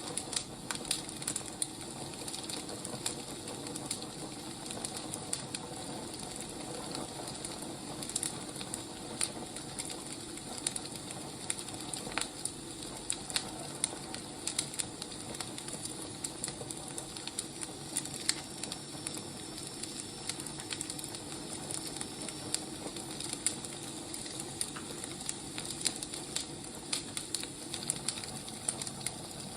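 Wood fire burning, with a steady hiss and frequent irregular crackles and pops from the logs.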